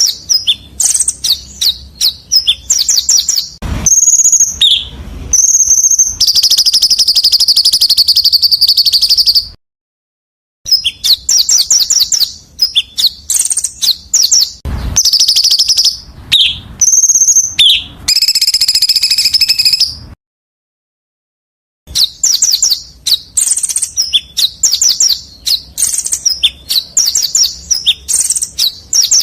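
Edited compilation of small songbird calls used as a masteran: quick sharp chirps and fast trills in rapid succession, with a long buzzy rattle twice. The sequence breaks off into dead silence twice and repeats as a loop.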